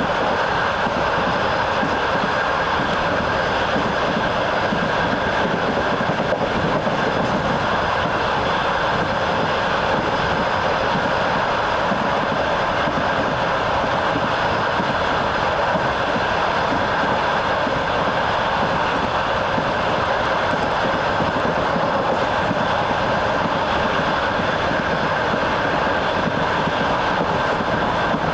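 Train wheels rolling on the rails, heard aboard a moving train: a steady, unbroken running noise.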